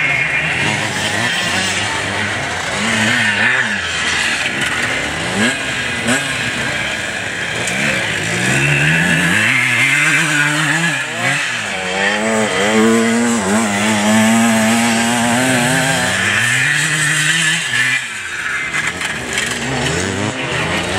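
Vintage enduro motorcycle engines revving on a dirt course, pitch climbing and dropping repeatedly with throttle and gear changes. In the middle one engine holds steady at high revs for a few seconds.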